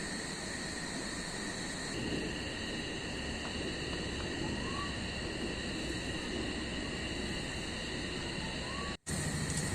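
Steady rain hiss with insects droning in several high, steady tones; another tone joins about two seconds in. Two short rising chirps sound in the middle, and the sound cuts out briefly near the end.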